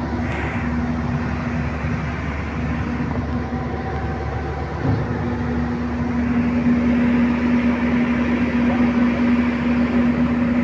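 Heavy diesel engine of the earthmoving machinery running steadily with a constant hum, a short knock about five seconds in, then running somewhat louder.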